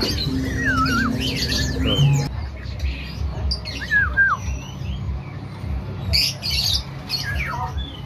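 Caged songbirds calling: two short whistled phrases that step downward in pitch, a few seconds apart, among scattered chirps and a harsh squawk.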